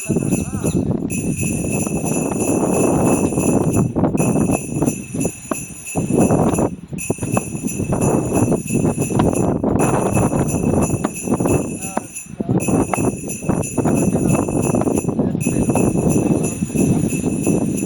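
A bell ringing steadily in runs of about three seconds with short breaks, over a loud, noisy din lower down.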